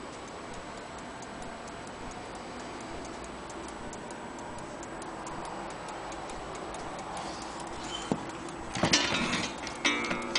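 Vintage German HAC wall clock ticking steadily. Near the end there is a knock, then a louder clatter, then a ringing tone.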